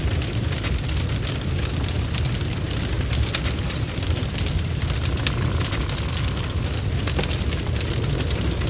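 Wood fire burning, with irregular sharp crackles and pops over a steady low rumble of the flames. A faint hiss rises for a second or so around the middle.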